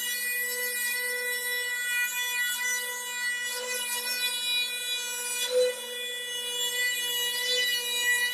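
CNC machine running: a steady whine at one pitch with a rasping, scraping cutting noise over it, and a brief louder scrape about five and a half seconds in.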